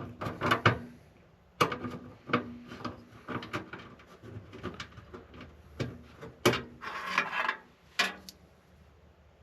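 Rummaging through hardware: an irregular run of clicks, knocks and rubbing as parts are handled and moved about, with a few sharper knocks, dying away about a second before the end.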